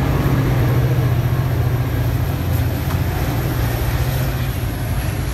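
Caltrain diesel-hauled passenger train passing, a steady low engine hum that slowly eases near the end.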